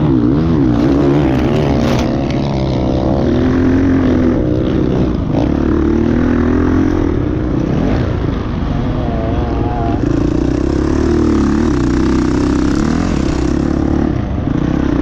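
Several motocross bikes running at once, their engines revving up and down through throttle and gear changes.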